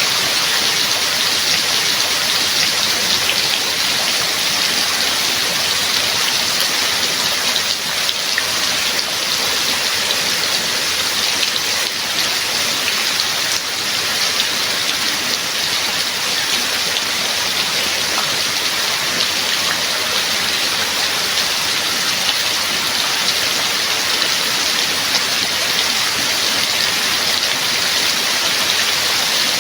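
Steady rain: an even hiss of countless drops with a fine patter, holding the same level throughout.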